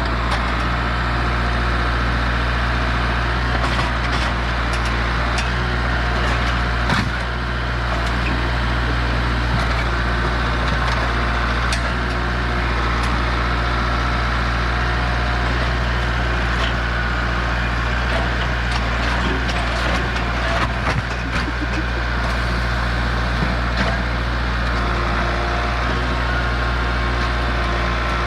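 Tractor engine running steadily, with scattered knocks, clicks and creaks of metal parts being strained and pulled.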